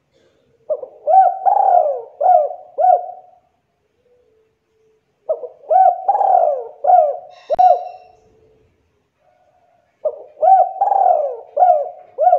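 Spotted dove (tekukur) cooing: three phrases of several cooing notes each, about five seconds apart. A sharp click falls in the middle of the second phrase.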